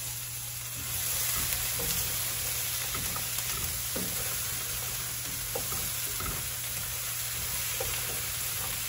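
Food frying in a pan on the stove, a steady sizzle that grows a little louder about a second in, with a few faint clicks.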